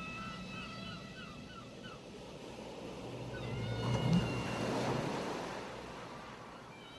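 A wave breaking and washing up the shore, the surf swelling to a peak about four seconds in and then drawing back. Gulls give a run of short calls at the start and a longer call just before the wave peaks.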